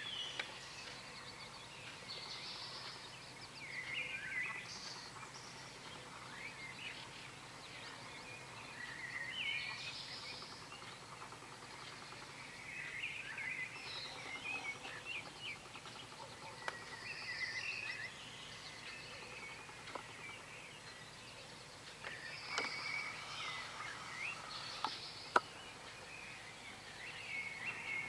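Several songbirds singing in an early-morning chorus: short chirping and warbling phrases every few seconds over a steady hiss. A few sharp clicks, the loudest one near the end.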